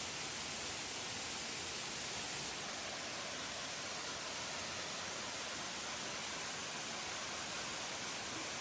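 Steady, even rush of a tall waterfall falling into its pool.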